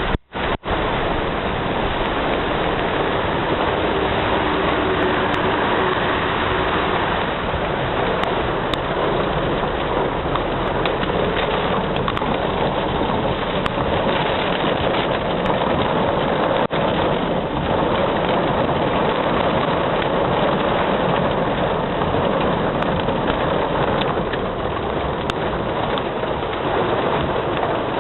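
Heavy rain falling steadily, an even, dense hiss, with a couple of brief dropouts right at the start.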